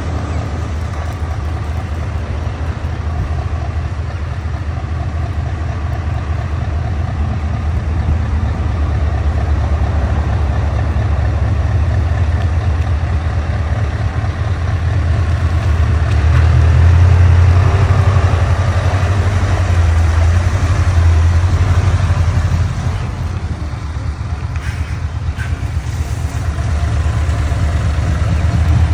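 Scania truck's diesel engine running at low revs, a steady low rumble that swells in the middle and eases off again near the end.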